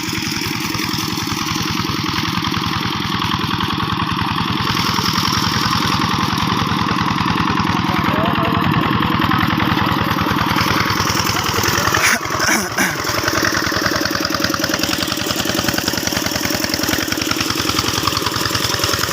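Two-wheel hand tractor's diesel engine running steadily with an even pulsing beat, briefly dipping about twelve seconds in.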